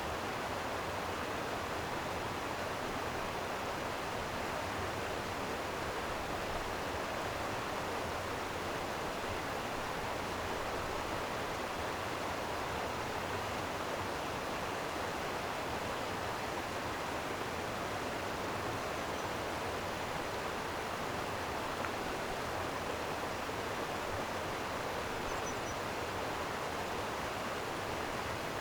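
Flowing water rushing steadily and evenly, with no change in level.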